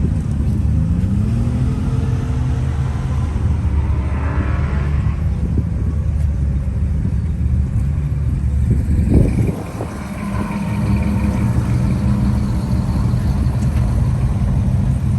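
Car engine rumbling at low speed close by, its revs rising briefly twice near the start; about nine seconds in there is a sharp loud burst, and the rumble drops for a moment, then carries on steadily.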